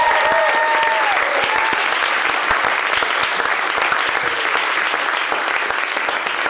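Audience applauding: dense, steady clapping from a small crowd. A held tone dies away about a second in.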